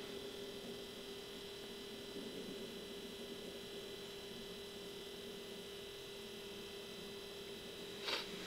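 Faint steady electrical hum, with a brief sharp rustle or tap near the end.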